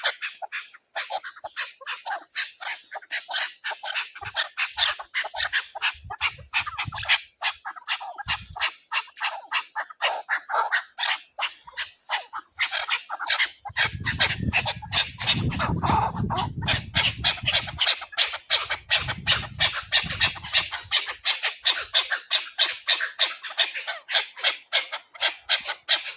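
Chukar partridge calling: a long, unbroken run of rapid repeated chuck notes, about three to four a second. A low rumble runs under the calls for several seconds in the middle.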